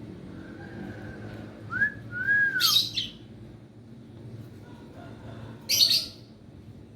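Hill myna whistling: a faint held note, then two short whistles that rise and fall about two seconds in. Each set is followed by a harsh, hissing call, one right after the whistles and another near the end.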